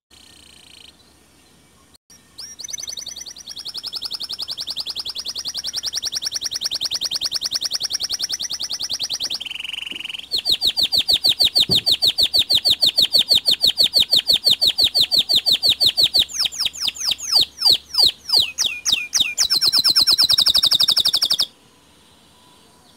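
White domestic canary singing a long song of rapid high trills. About ten seconds in it changes to a slower, louder trill, then gives a run of falling swept notes and a final fast trill that stops abruptly.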